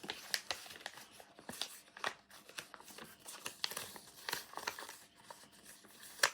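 A sheet of paper being handled and folded into a paper airplane: irregular crisp rustles and crinkles as the folds are creased, with one sharper crackle near the end.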